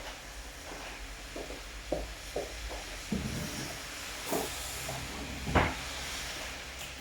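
Steady rain hiss with a low rumble underneath. It is broken by a handful of irregular knocks or taps, the loudest about five and a half seconds in.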